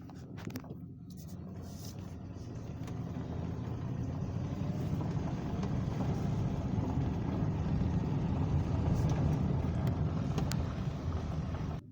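Road and engine noise of a moving vehicle heard from inside, a steady rumble that grows louder as it picks up speed and then cuts off suddenly near the end.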